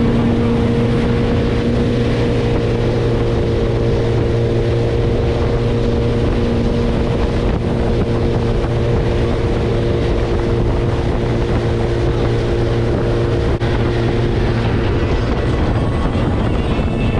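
Motorboat engine running at a steady speed under loud wind and water noise. The engine's steady hum fades out late on.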